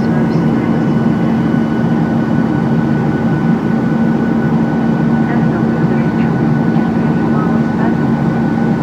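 Airplane engine and airflow noise heard from inside the cabin in flight: a steady, loud hum with a constant low drone.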